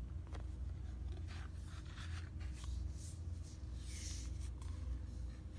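Paper rustling and soft scrapes and taps as the pages of a picture book are handled and turned, over a steady low hum.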